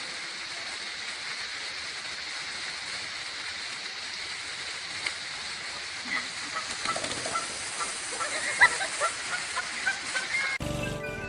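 Goose honking in a run of short, sharp calls through the second half, over a steady hiss.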